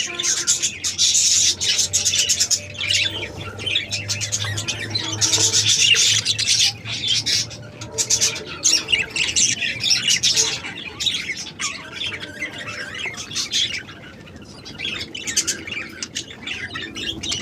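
Many caged budgerigars chattering, with continuous overlapping chirps and squawks. The chatter is busiest for the first ten seconds or so and thins out near the end.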